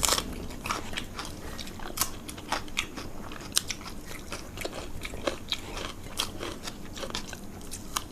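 Chewing and crunching of fried food: a quick, irregular run of crisp crunches and mouth sounds, loudest right at the start.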